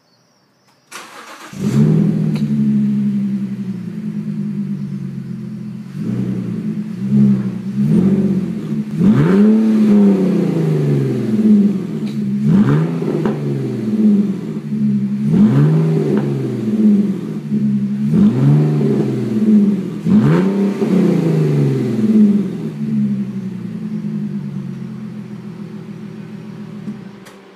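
BMW Z4 E85 running through a cat-back exhaust with the muffler deleted and twin pipes: the engine starts about a second in and idles, then is blipped about nine times in quick rising-and-falling revs, settles back to idle and cuts off near the end.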